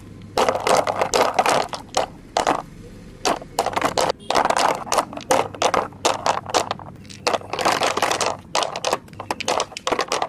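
Toy construction vehicles being pushed and dug through dry soil and small stones, with irregular scraping and crunching strokes coming in quick bursts.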